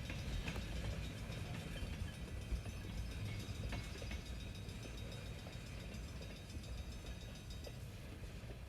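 Train rumbling by with scattered clicks of wheels on the rails, slowly fading as it moves away.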